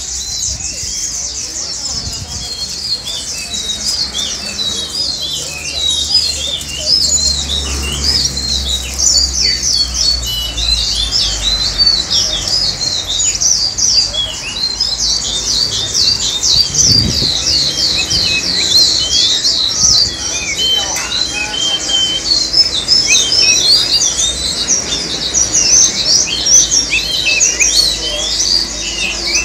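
Many caged songbirds chirping and twittering together in a dense, continuous chorus of short, high chirps and trills.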